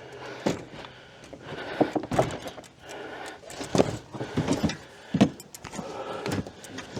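A series of irregular knocks, clicks and rattles of camping gear being handled, with a faint low hum in the first few seconds.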